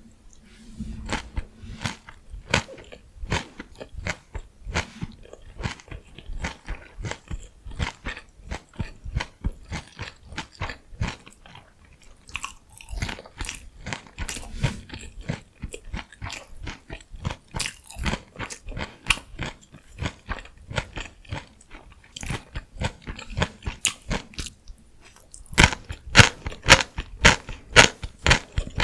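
Close-miked eating sounds of cabbage-wrapped rice and crunchy pickled vegetables: continuous crisp chewing and crunching, irregular bites and chews, with louder, sharper crunches from about 25 seconds in.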